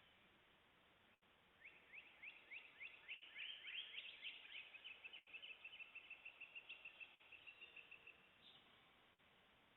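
A songbird singing faintly: a run of quick down-slurred notes, then an even trill of rapidly repeated notes that ends a little over a second before the close.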